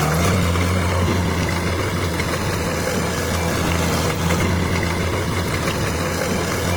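Bulldozer's diesel engine running steadily at an even, low pitch, with no revving.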